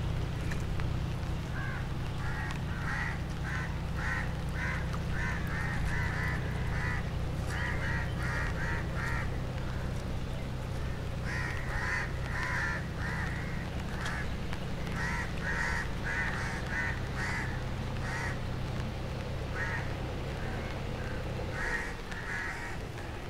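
Birds calling in long runs of short, harsh calls, several a second, in two main bouts with a few scattered calls after. A steady low rumble runs underneath and drops away near the end.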